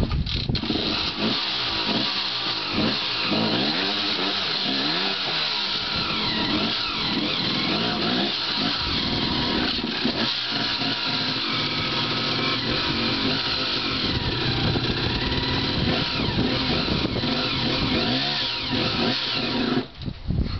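Dirt bike engine revving up and down as it is ridden over rough rocky trail, the pitch rising and falling repeatedly with the throttle.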